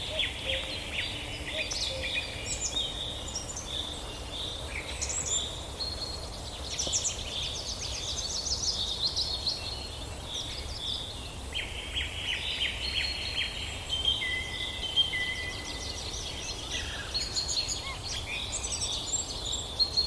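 Several birds singing at once: overlapping chirps, rapid trills and short whistles, over a steady low background rumble.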